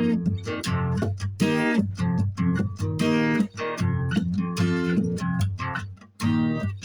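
Acoustic guitar being picked, an improvised run of single notes and chords in a loose, exploratory pattern, with a brief pause about six seconds in.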